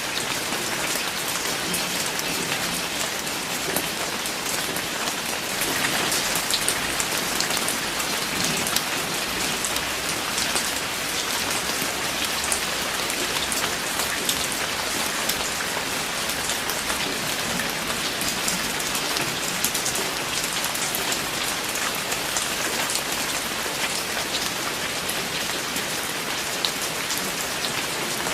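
Steady rain falling on a hard surface, a dense hiss with many close individual drops ticking, slightly heavier for a moment about six seconds in.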